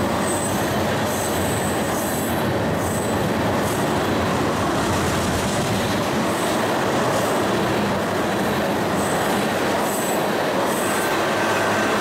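Tank cars of a freight oil train rolling past close by: a steady rumble of steel wheels on rail, with short high wheel squeals every second or so.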